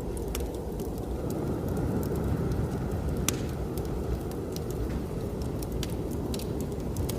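Wood fire crackling, with scattered sharp pops, the loudest about three seconds in, over a steady low rumble of blizzard wind.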